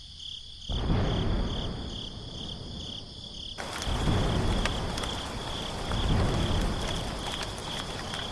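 Crickets chirping in an even, quick pulse. A low rumble comes in about a second in, and a steady hiss with scattered sharp ticks joins from about halfway, like rain starting.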